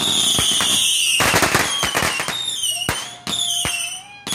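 Fireworks going off: several sharp bangs with a dense burst of crackling about a second in. High whistles fall in pitch after the bursts.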